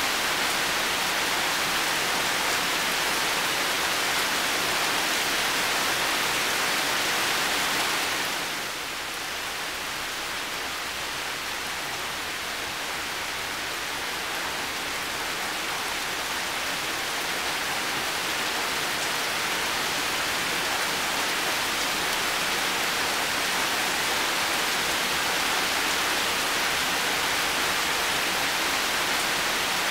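Heavy rain falling steadily as a dense hiss, briefly easing about a third of the way in and then building back up.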